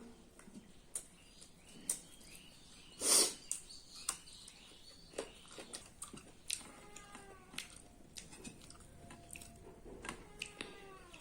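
Close-up eating sounds: chewing and wet mouth clicks, with one louder, longer noise about three seconds in. Faint chirping calls from an animal sound in the background around the middle and near the end.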